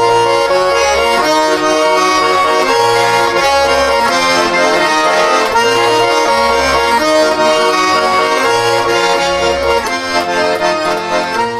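Accordion playing the instrumental interlude of a song: held chords over a bass line that moves to a new note about once a second.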